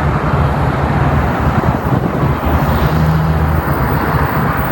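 A motor vehicle running steadily, with a low engine hum under road noise.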